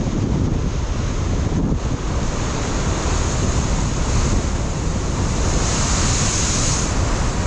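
Ocean surf breaking and washing over a rocky shore, with wind buffeting the microphone as a steady low rumble. A brighter hiss of rushing water swells about six seconds in.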